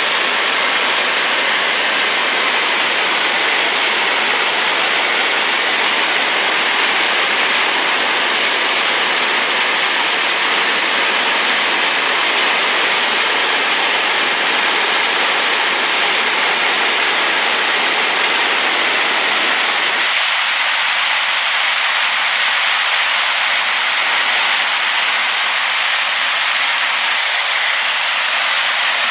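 Rain-swollen waterfall: loud, steady rushing of water, strongest in the upper-middle range. About two-thirds of the way through, the deep part of the rush thins out.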